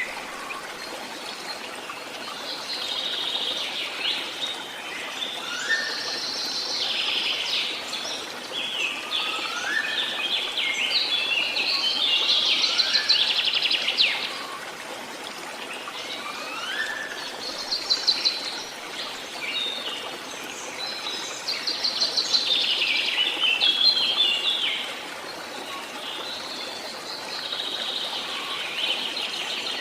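Songbirds singing in repeated bursts of rapid high notes a few seconds apart, with short upward-slurred whistles in between, over a steady background hiss.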